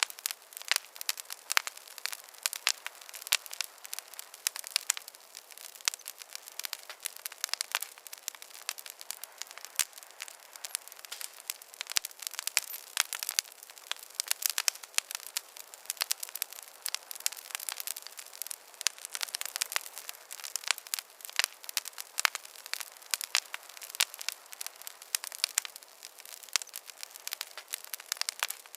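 Wood fire in a fireplace crackling steadily, with many sharp pops and snaps over a soft hiss.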